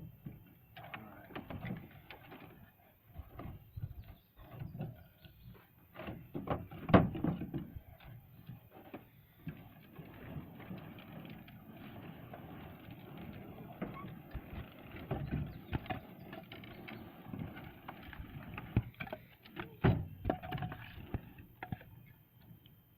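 Split firewood knocking and clunking against itself and the truck bed in irregular bursts, the loudest clunk about seven seconds in.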